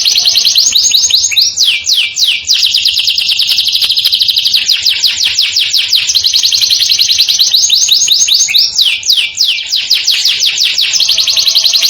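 Domestic canary singing continuously in fast rolling trills of rapid, high repeated notes, broken a couple of times by short runs of quick falling sweeps.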